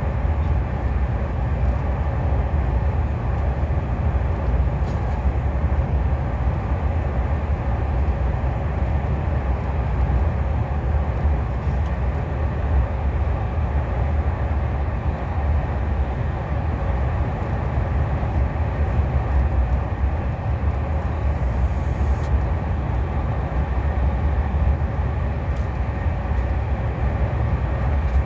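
Steady running noise of a KTX high-speed train heard from inside a passenger car: a constant deep rumble with an even hiss above it.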